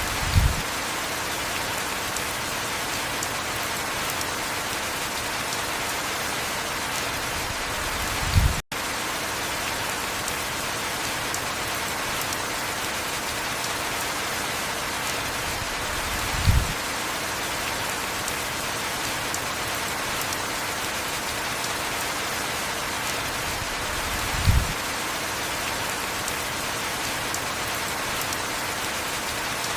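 Steady heavy rainfall: an even hiss of rain falling on surfaces. A short low thump comes four times, about every eight seconds, and the sound cuts out for an instant just after the second one.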